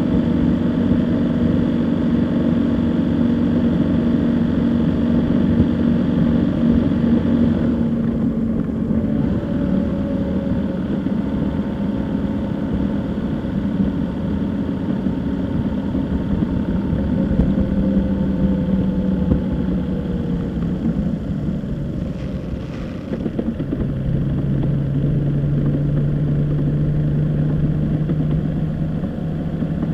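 A vehicle's engine running under way with steady road noise, its tone shifting slightly as speed changes and settling to a new, lower pitch about 23 seconds in.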